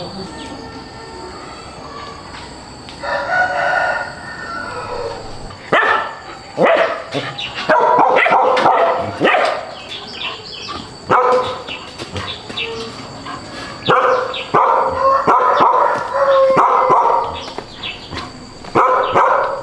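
Roosters crowing several times, one long crow after another.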